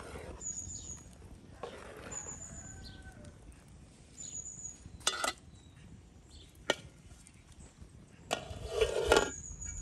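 A bird gives a short, thin, high call four times. Between the calls come a few sharp knocks, and a louder rustling scrape comes near the end.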